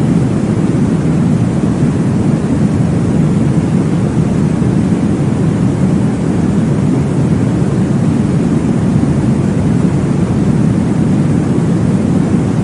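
Steady, deep whooshing noise from a womb-sound sleep track, heavy in the low end and muffled in the highs, like brown noise, with no breaks or changes.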